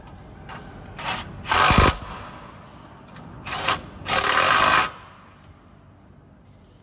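A power tool runs down 10 mm bolts in two spurts. Each spurt is a short blip followed by a run of under a second.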